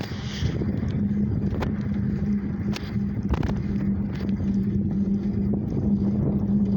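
Steady riding noise from a lowrider bicycle on the road: wind on the microphone and rolling noise with a steady low hum, and a few sharp clicks and rattles.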